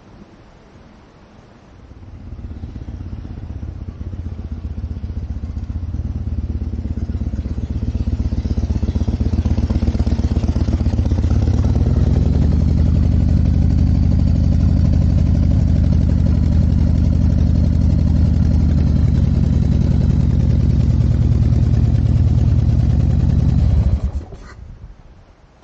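Harley-Davidson V-twin motorcycle engine running, growing louder over the first several seconds, then holding steady before cutting off abruptly near the end.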